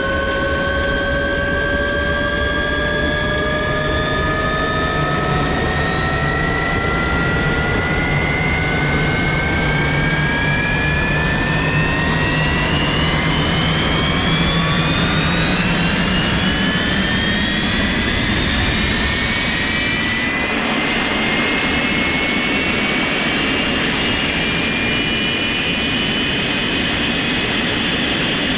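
Jet engine spooling up during a start: a steady loud roar under a whine that climbs slowly and evenly in pitch, then levels off to a steady high whine about two-thirds of the way through as the engine settles.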